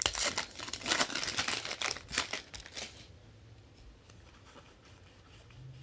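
Plastic wrapper of a 2016 Donruss football card pack crinkling and tearing as it is opened, stopping about three seconds in.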